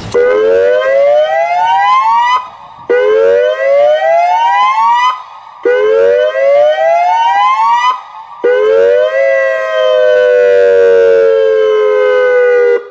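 Federal Signal Modulator 6024B electronic outdoor warning siren sounding its Hazmat test tone: four rising whoops, each sweeping up over about two seconds with a brief gap between, then a longer tone that falls slowly before cutting off suddenly near the end.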